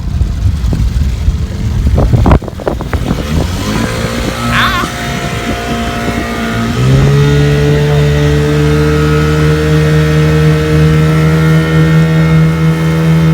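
Dinghy outboard motor running, with a rush of wind and water noise at first that cuts off suddenly. The motor ticks over, then about halfway through it is throttled up and holds a steady, higher engine note, running again now that its pinched fuel line has been freed.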